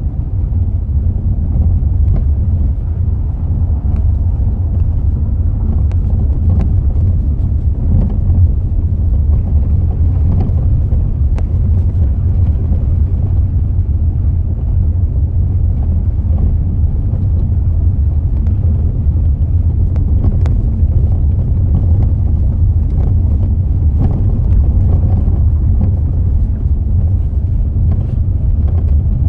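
Mazda 6 running, with a steady low rumble and irregular sharp knocks from the front suspension, a knocking noise that the owner puts down to the front strut bearing.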